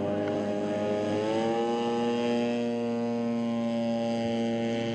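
Radio-controlled model airplane engine running, its pitch rising over the first two seconds and then holding steady.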